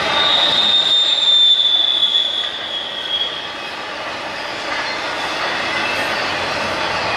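Train rolling past on the rails, its wheels squealing in one high, steady tone for about the first three seconds. After that only the steady noise of the cars running over the track remains.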